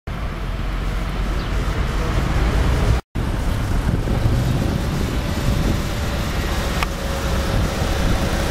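Street traffic noise: a steady low rumble of passing cars, broken by a brief dropout about three seconds in.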